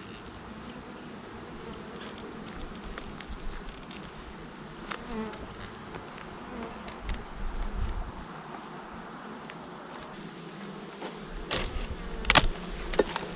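Honeybees buzzing steadily around an open hive. A few sharp knocks sound near the end.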